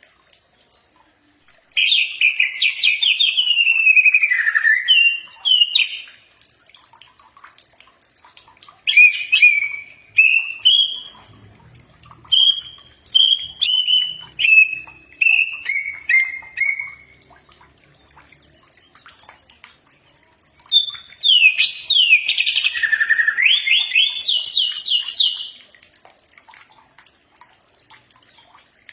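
Cucak ijo (leafbird) singing in three loud bouts a few seconds apart: rapid, sweeping whistled phrases, with the middle bout a string of short notes stepping downward in pitch.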